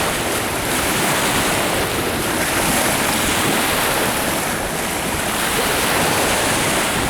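Strong wind rushing over the microphone with lake waves washing against the shore, a steady noise without distinct events.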